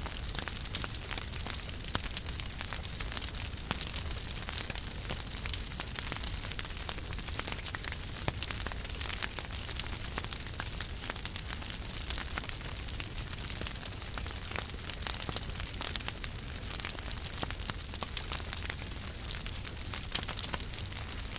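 Wood fire burning in a fireplace, crackling steadily with frequent small pops over a low rumble.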